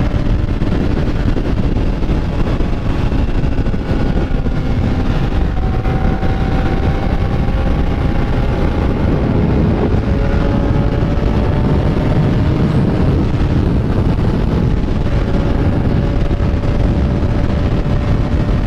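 Motorcycle engine running on the move, under heavy wind rush on the microphone. Its faint pitch climbs slowly and drops back a few times.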